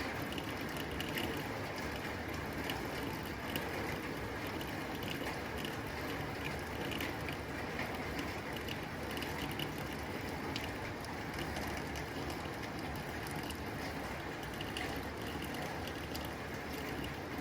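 Rain falling on a tin roof: a steady hiss with dense, irregular ticks of drops striking the metal sheets.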